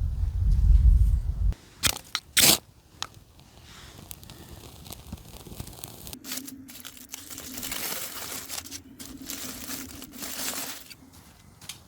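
Snow being crunched and scraped: a low rumble at the start, two sharp crunches about two seconds in, then a longer scraping rush from about six seconds to near the end.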